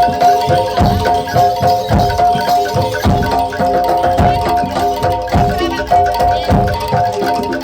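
Gamelan accompaniment for jaranan dor: bronze metallophones ring a repeating melody over regular low drum beats.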